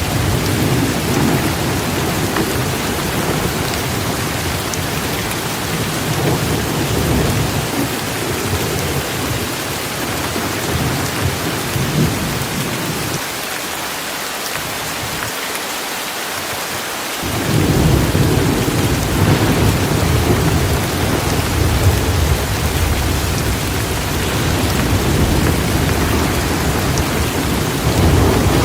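Torrential rain falling steadily, with a deep rumble of thunder underneath. The rumble dies away a little past the middle, then comes back louder about four seconds later.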